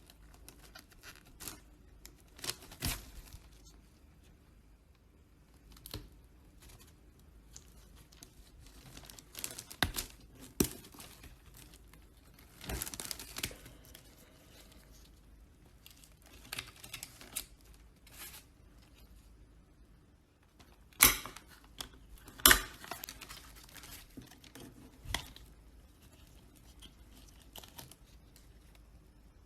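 Hand work on a small metal scale model car and its parts: scattered scrapes, rustling and light clicks, with two sharp knocks about three quarters of the way through.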